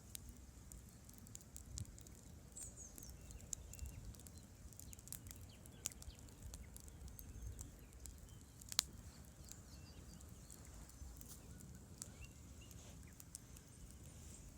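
Wood campfire crackling, with scattered small pops and one sharp louder pop about nine seconds in.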